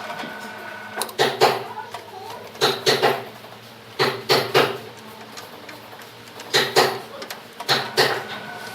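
Sharp knocks on wood in quick groups of two or three, a group about every second and a half. A steady machine hum stops about a second in.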